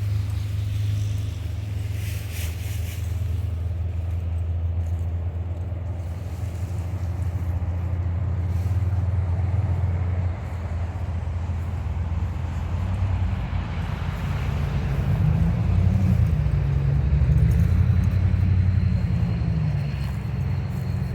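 Fordson Major tractor engine running steadily. About two-thirds of the way through its pitch rises and wavers and it gets louder, then it settles again near the end.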